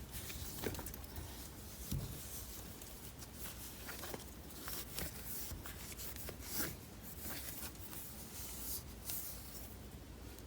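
E-Cloth microfibre cloth wiping a grimy car wheel rim: faint, irregular rubbing strokes with a few light knocks.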